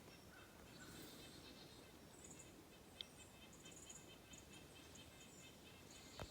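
Near silence: quiet woodland ambience with faint, high chirping and a single small click about three seconds in.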